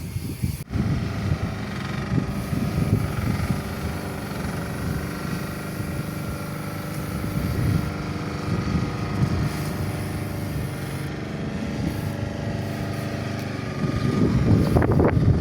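A motor vehicle engine running steadily over a low road and wind rumble. It grows louder near the end.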